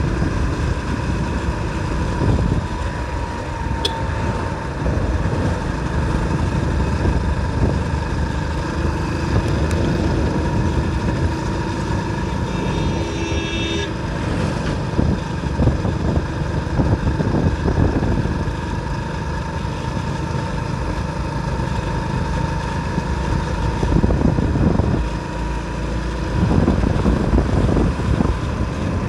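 Motorcycle running on the road, a steady noise strongest low down. A vehicle horn sounds for about two seconds near the middle.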